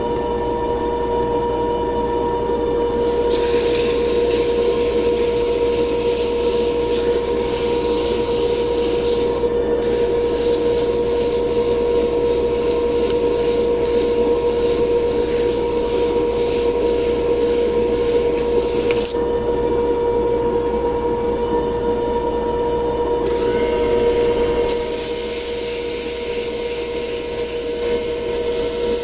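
A small lathe motor runs with a steady whine while an abrasive rubs against the spinning wooden cue. The rubbing hiss comes and goes in strength as the pressure changes, growing about three seconds in and easing off near 19 and 24 seconds.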